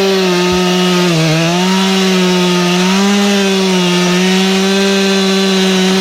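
Stihl two-stroke chainsaw held at full throttle cutting through wood, its pitch dipping briefly about a second in as the chain bites under load, then holding steady.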